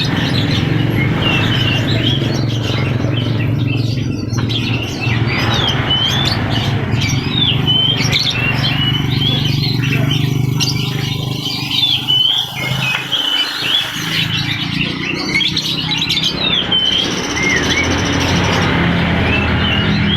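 Lovebirds chirping: a quick run of short, high chirps and squeaks, over a steady low hum.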